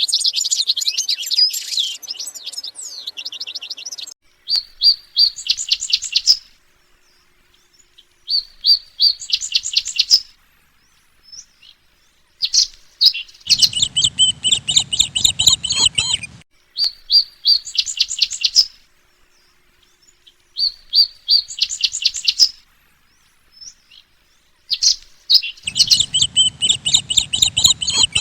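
Small cage songbirds singing: dense high chattering for about four seconds, then repeated short phrases of rapid high-pitched chirps, each about two seconds long, with pauses between them. A low rumble sits under two of the phrases, about halfway through and near the end.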